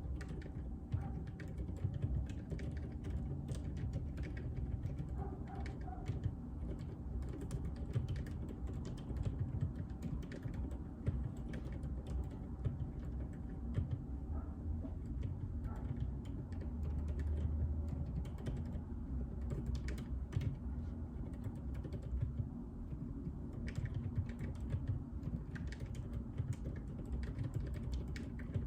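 Continuous typing on a JJK84 mechanical keyboard with Outemu Silent Peach linear switches: an irregular, fast stream of soft keystroke clicks.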